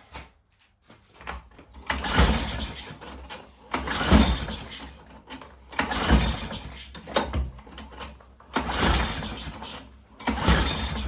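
Gasoline lawn mower being pull-started by its recoil starter cord, about five pulls roughly two seconds apart. Each pull spins the engine over briefly without it catching: it isn't firing because the ignition is giving no spark.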